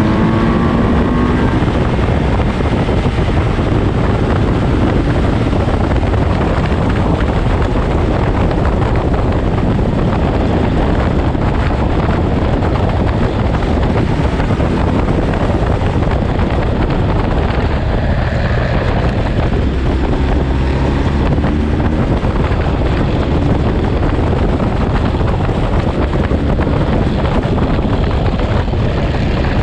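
Ducati Monster V-twin engine heard on the move, largely covered by wind rushing over the microphone; the engine tone rises in pitch in the first second or two and comes through again about twenty seconds in.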